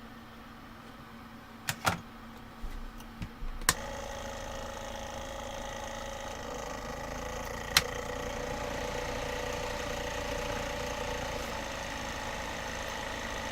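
A few sharp clicks, then a small electric fan or blower motor switches on about four seconds in and runs with a steady whir.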